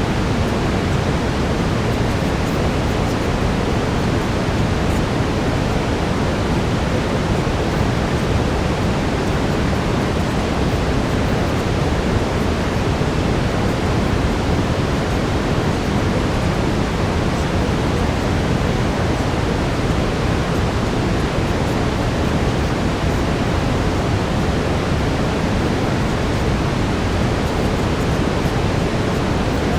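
Steady brown noise: an even, unchanging hiss, strongest in the low end.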